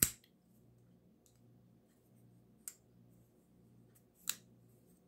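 Sharp clicks from a folding pocket knife being handled, three in all: the loudest right at the start, another a little under three seconds in and a third about four seconds in.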